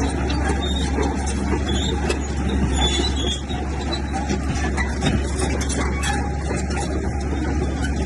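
Komatsu bulldozer's diesel engine running steadily under load, with short high squeaks from the tracks.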